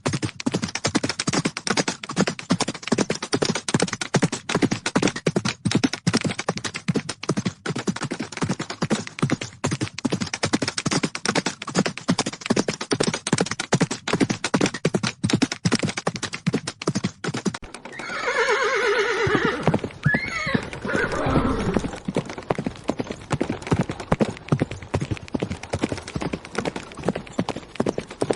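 Horses galloping: a dense, rapid drumming of hoofbeats throughout. About two-thirds of the way through, a horse gives one long whinny that falls in pitch with a quaver, lasting two or three seconds.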